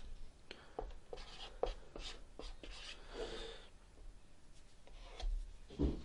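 Faint scratching and light taps of small objects being handled at a table, with a couple of firmer knocks near the end.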